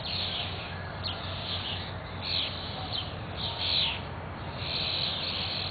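Repeated harsh, raspy bird calls, one every half second to second with a longer call near the end: a fledgling begging for food.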